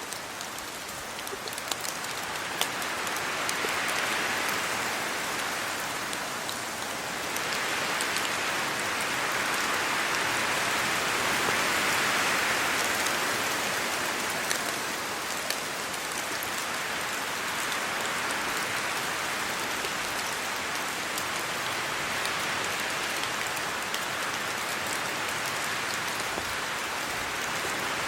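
Steady rain falling on leaves and the ground, with sharp ticks of individual drops, and wind through the trees. It swells louder twice, around four seconds in and again around twelve seconds in.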